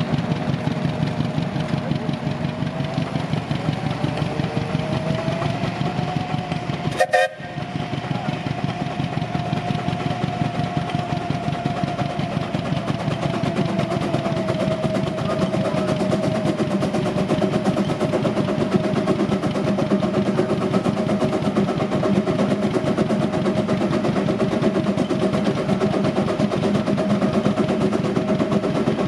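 Russell 13 hp steam traction engine running under load on a water dynamometer: fast, even exhaust beats with a steady tone running above them. About seven seconds in comes a brief sharp burst and a momentary drop in the sound.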